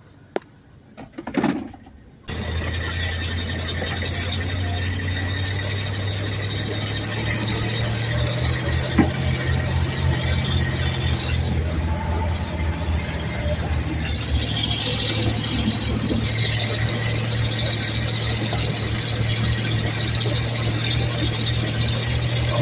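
Homemade Doodlebug skidder built from a 1990 Dodge W250 truck, running steadily under way with a thin, steady high squeal over the engine. Two short knocks come first, then the engine sound starts abruptly about two seconds in.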